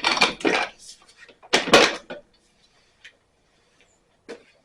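Metallic clunks and knocks from a 1927 Ottawa stationary engine being turned over by hand: two sharp knocks at the start, another about a second and a half in, then a couple of faint clicks.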